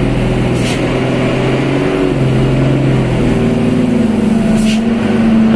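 Truck engine pulling under load on a steep climb. Its pitch steps up and holds about three seconds in. Two short hisses come through, one about a second in and one near the end.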